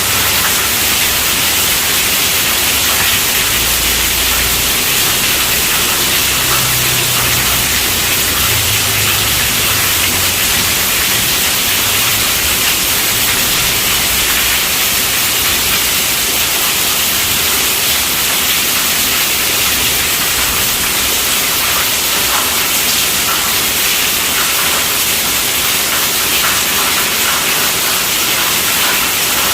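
Heavy rain drumming on a tent roof: a steady, dense hiss of drops on the fabric. A faint low rumble of distant thunder comes and goes during the first half.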